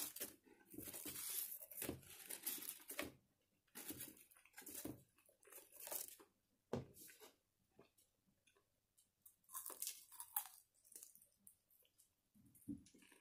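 Close-up chewing and crunching of deep-fried squid (ika karaage), in irregular bursts of crackly mouth noise.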